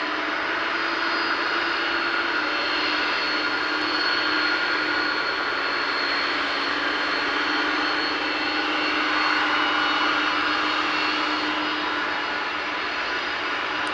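Jet engines of a Boeing 747-400F running steadily at idle while the freighter holds short before takeoff: a steady rush of noise with a few constant whining tones over it.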